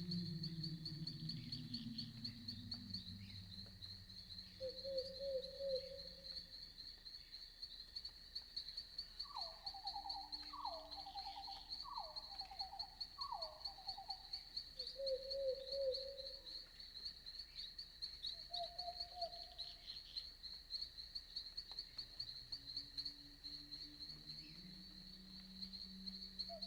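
Night insects, crickets, trilling steadily and high-pitched. Between them come short calls from other night animals, including four quick falling notes about ten seconds in. A low hooting call sounds at the start and again near the end.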